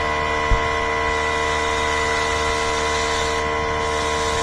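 Electric heat gun running with a steady whine and blowing air while it shrinks the tubing on a sealed crimp butt connector. There is a short low knock about half a second in.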